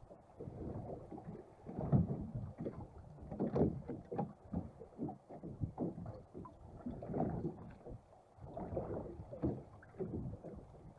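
Water slapping and lapping against the hull of a small fishing boat as it rocks at sea, an irregular run of dull knocks and splashes.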